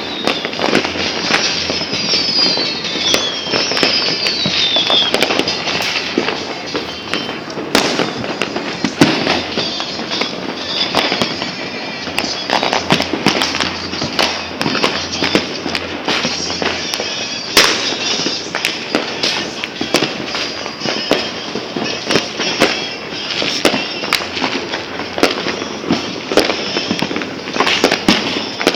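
New Year fireworks and firecrackers going off all around in a continuous barrage of bangs and crackles. In the first few seconds, whistling rockets fall in pitch.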